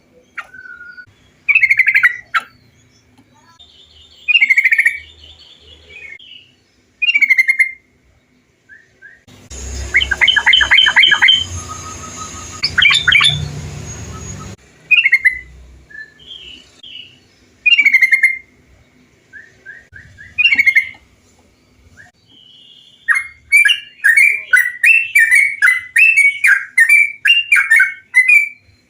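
Trucukan bulbul song: short, bubbly whistled phrases repeated every couple of seconds. A stretch with a noisier background and quicker notes comes about a third of the way in, and near the end the song runs into a rapid string of chattering notes.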